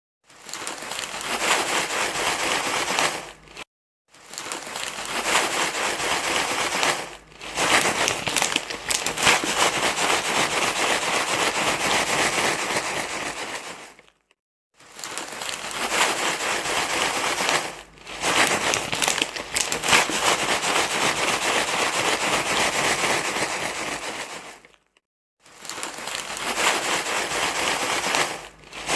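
Steady crinkling, crackling rustle, as of something being crumpled and handled, in long stretches of several seconds broken three times by a brief silence.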